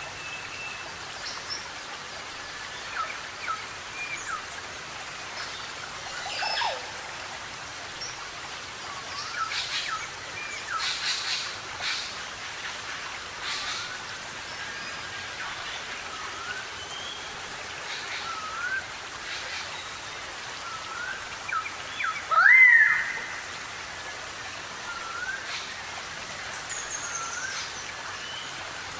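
Several forest birds calling: scattered short chirps, whistled notes and slurred calls over a steady hiss, with one loud, sharply rising call about three-quarters of the way through.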